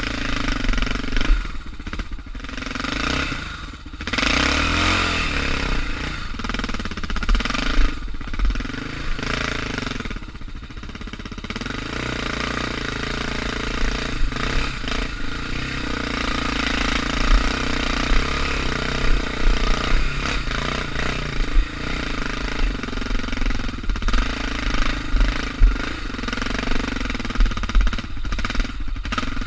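Suzuki DR650's single-cylinder four-stroke engine running as the bike is ridden on a dirt trail, its speed rising and falling with the throttle and easing off briefly about ten seconds in.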